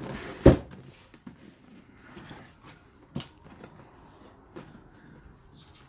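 Cardboard box packaging being handled and opened after its tape is cut, with scraping and rustling. A sharp knock comes about half a second in, another click about three seconds in, and quieter rustling between them.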